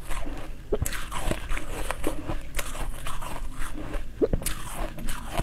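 Close-up mouth sounds of someone chewing crunchy food: a series of crisp crunches and bites at irregular intervals.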